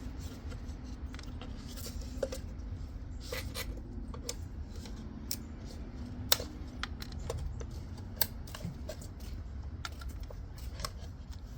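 Scattered small clicks and light scraping from working on drawer parts by hand, over a low steady hum, with one sharper, louder click about six seconds in.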